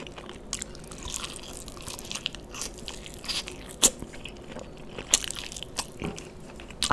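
Chewing and biting into fried, sauce-coated chicken lollipops, with scattered crunches and wet mouth sounds. There are a couple of sharper crunches about four and five seconds in.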